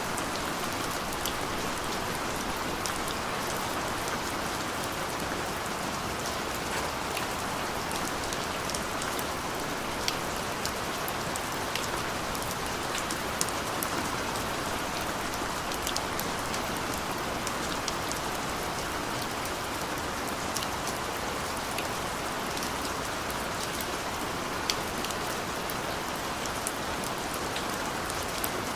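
Steady rain falling on a surface, a constant hiss with many individual drops ticking sharply throughout.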